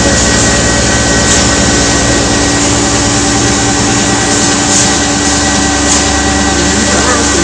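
A machine tool, most likely the CNC lathe, running loudly and steadily with a constant hum and a thin high whine. A rapid low throb gives way to a smoother low rumble about two-thirds of the way through.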